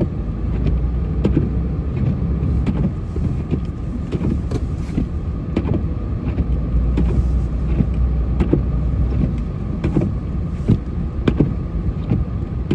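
A vehicle engine running steadily with a low rumble, with scattered sharp clicks throughout.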